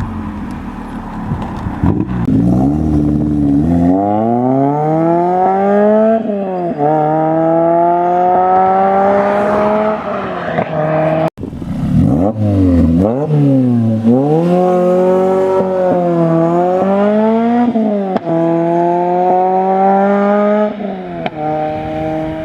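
Lotus Exige S2's four-cylinder engine, breathing through a Janspeed Stage 2 exhaust, accelerating hard through the gears. The note climbs, drops at each upshift and climbs again, over and over, with a brief break about eleven seconds in.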